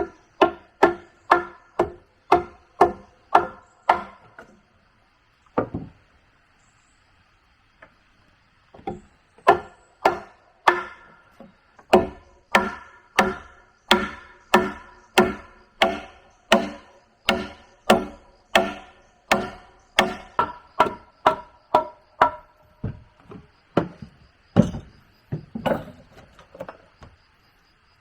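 Repeated blows of a tool on wood, about two a second, each a sharp knock with a brief hollow ring, working in runs with two short pauses in the first third and thinning out to scattered blows near the end.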